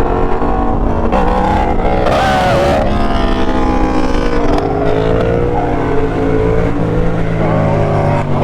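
Motorcycle engines running while riding, their pitch shifting slowly with speed and rising briefly about two seconds in.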